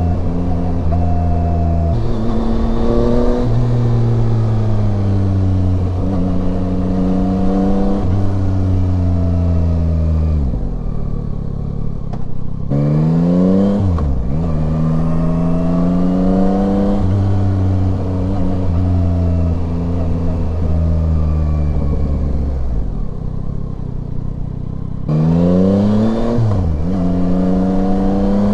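Yamaha Tracer 9's 890 cc inline-three engine under way with wind rush. Twice the revs fall away as the bike slows, then climb sharply under throttle, dipping briefly at a quick gear change.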